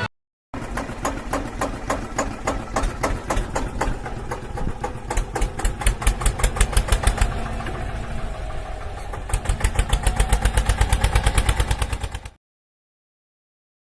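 Small engine of a DIY mini tractor model running with a rapid, even chugging of about ten beats a second. It gets louder from about nine seconds in and cuts off abruptly a little after twelve seconds.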